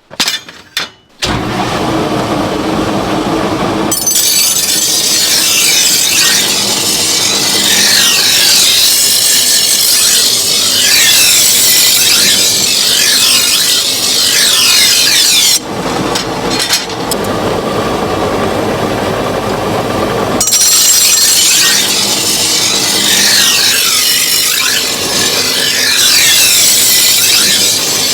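A power tool working a workpiece in two long shrill bouts, with a wavering high squeal and a duller, lower stretch between them.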